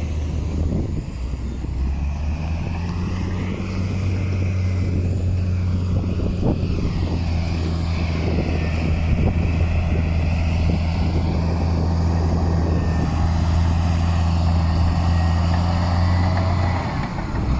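Heavy diesel engine of earthmoving machinery running steadily at a constant pitch, with scattered knocks and rattles in the middle.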